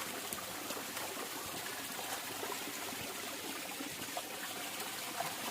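Small stream of water running steadily over rocks, a constant trickling and splashing flow.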